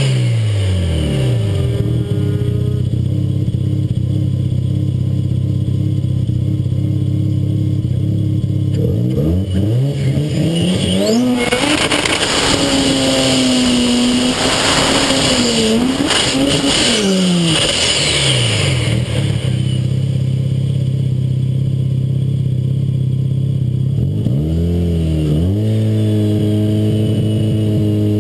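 Drag car's engine idling, revving up about ten seconds in, held at high revs for several seconds, then dropping back to idle. Near the end it gives another short rev.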